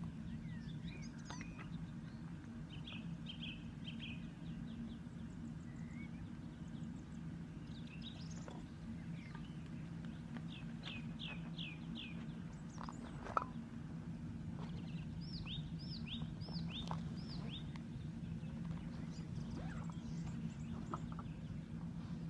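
Small birds chirping and singing in short, repeated phrases of quick high notes over a steady low hum, with one sharp click about thirteen seconds in.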